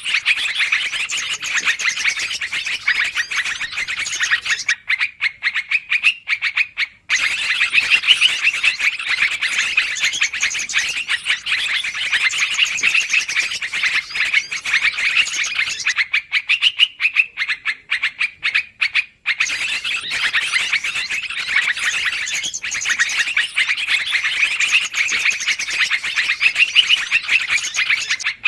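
Bird-lure recording of yellow-vented bulbuls (trucukan) calling noisily: a dense, rapid chatter that breaks off twice for a couple of seconds.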